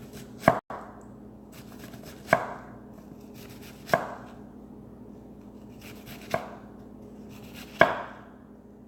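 Kitchen knife chopping food on a cutting board: five slow, single chops, each a sharp knock a second and a half to two and a half seconds apart.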